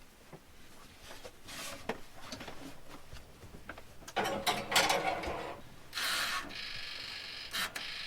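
Rustling and small knocks of food and utensils being handled while cooking. About six seconds in, a steady hiss starts and keeps going as the food is set to bake.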